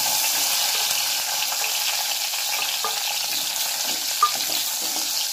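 Halved tomatoes and tamarind sizzling steadily as they sauté in hot sesame oil in a stainless steel kadai, stirred with a spatula. A single short tap sounds about four seconds in.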